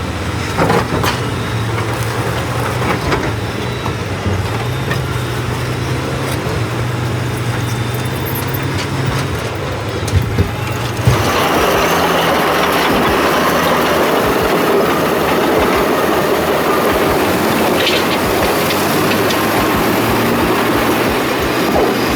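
Heavy diesel machinery running: a steady low engine drone with occasional knocks, then about 11 seconds in an abrupt change to a louder, harsher, noisier machine sound.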